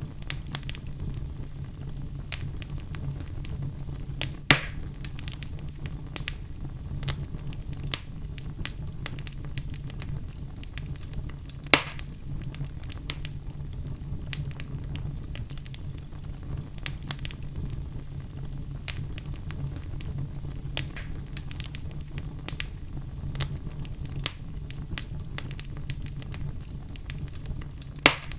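Wood logs burning in a fireplace: frequent small crackles over a steady low rumble, with three louder pops, about four seconds in, near the middle and near the end.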